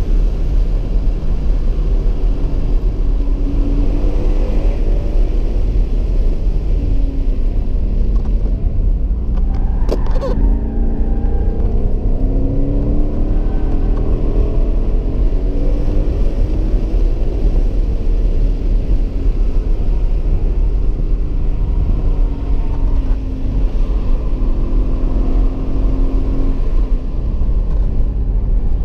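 2015 Ford Mustang GT's 5.0-litre V8 heard from inside the cabin under hard driving, its pitch rising and falling repeatedly as it revs through the gears, over a heavy low rumble. A single sharp click about ten seconds in.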